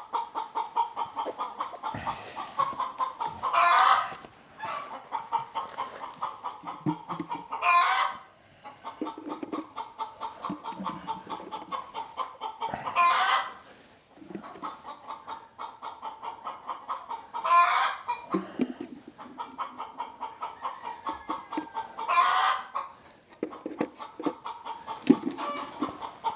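Chickens clucking in a quick, steady run, broken by a louder, longer call about every four to five seconds.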